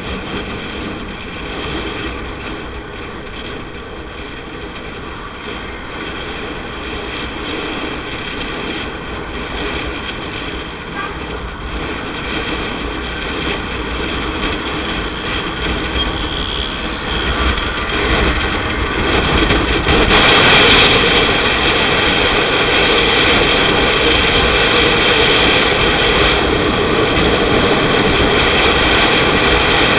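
Motorcycle engine running while riding, with road and wind noise under its steady tones; it grows louder about two-thirds of the way through.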